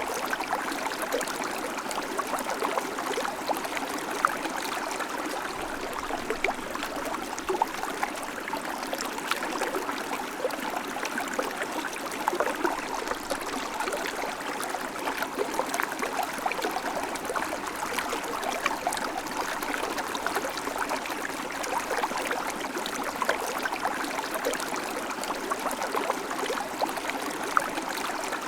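River water flowing and babbling steadily, with many small splashes and trickles over the constant rush.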